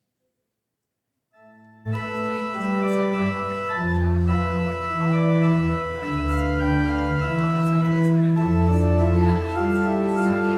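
Church organ playing sustained chords over a slowly moving bass line, starting about two seconds in. It is the music at the close of the service.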